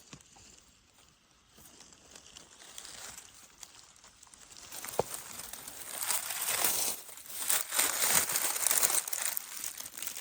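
Dry leaves and undergrowth rustling and crackling as they are disturbed on the forest floor. The sound starts about five seconds in and stays loud and irregular.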